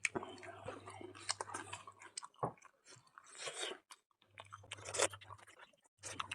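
Crunchy chewing in irregular bites, with a low steady hum that drops out about two seconds in and comes back near the middle.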